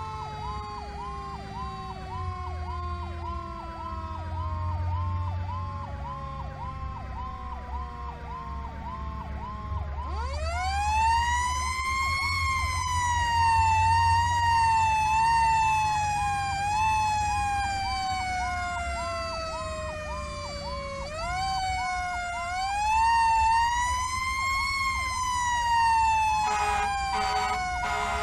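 Fire apparatus responding with sirens: a fast electronic yelp repeating about three times a second throughout, and a second siren that winds up to a wail about ten seconds in, slowly falls off, and winds up again about twenty-one seconds in. Several short air-horn blasts come near the end, over the low rumble of the truck's engine.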